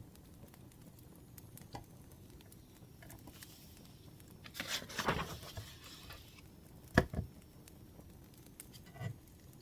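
Wood fire crackling softly in the background, with handling sounds from someone studying: a rustle around five seconds in and a sharp knock about seven seconds in, followed by a lighter tap.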